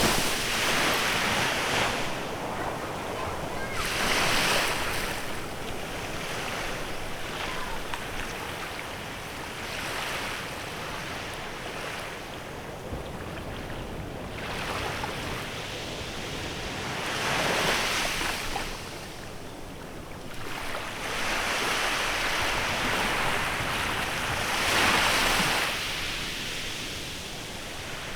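Small waves breaking and washing onto a beach, the surf swelling every few seconds, with a rushing sound that may be wind on the microphone.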